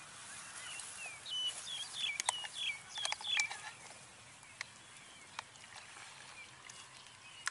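A bird chirping a quick run of short, high hooked notes for about two seconds, starting about a second in, over a faint steady background hiss, with a few light clicks.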